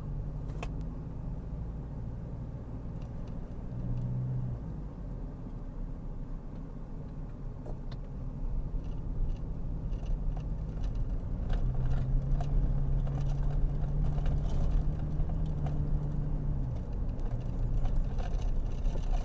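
Car driving along a winding road: a steady engine hum and road noise, getting louder from about halfway through, with scattered light clicks and rattles.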